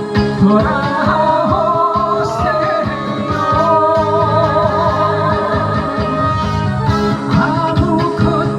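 Korean pop song performed live by a female singer over a backing track with a steady beat; she holds long notes with wide vibrato.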